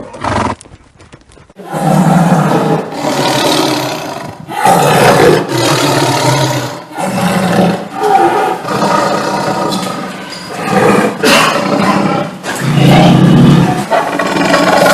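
A big cat, such as a tiger or lion, roaring and growling in a long series of rough calls about a second each with short breaks between them, starting about a second and a half in.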